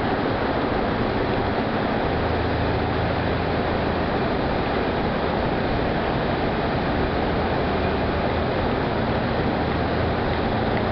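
Ford Model A's four-cylinder engine running at steady road speed, mixed with tyre and wind noise and the traffic roar inside a road tunnel; the engine hum shifts slightly about two seconds in.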